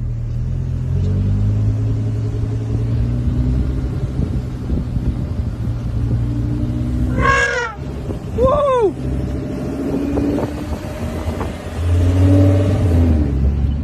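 Car engine running with a steady low rumble, swelling louder near the end. About seven and eight and a half seconds in come two short, loud pitched sounds that rise and fall in pitch.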